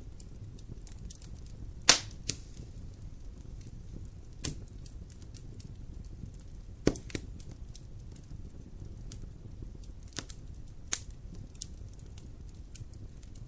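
Wood fire in a fireplace crackling, with scattered small clicks and several sharp louder pops over a low steady rumble; the loudest pop comes about two seconds in.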